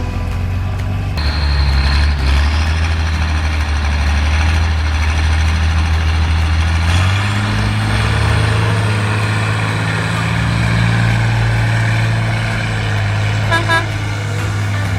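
Competition trial truck's engine running hard under load, its pitch stepping up about seven seconds in.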